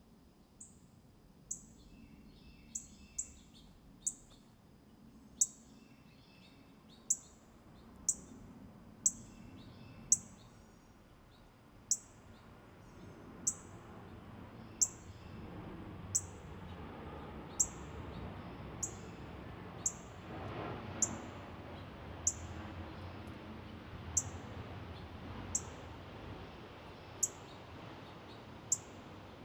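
A small songbird repeating a short, high call that slurs sharply downward, about once a second. During the first ten seconds softer, lower chirps join in.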